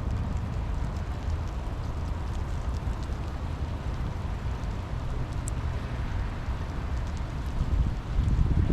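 Steady rain with faint scattered drop ticks over a heavy low rumble of wind on the microphone. The rumble swells near the end as a gust picks up.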